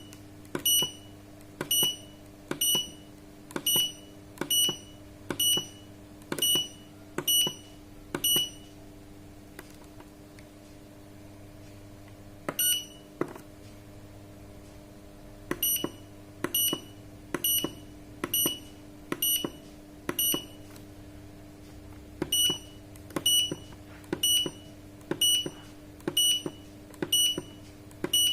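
Sanken digital solar water heater controller beeping as its buttons are pressed to step through settings: short high key beeps, each with a click, repeated a little faster than once a second. They come in two runs with a pause of several seconds in between, over a steady low hum.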